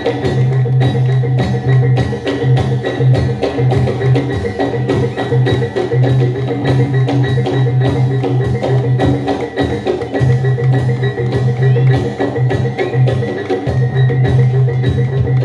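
Javanese jaran dor (reog) ensemble music played live: rapid drum strokes over ringing metal percussion tones and a strong, sustained low tone that drops out briefly now and then.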